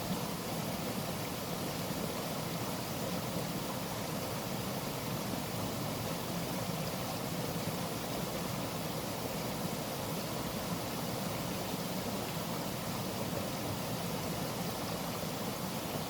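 Waterfall's rushing water: a steady, even rush with no breaks.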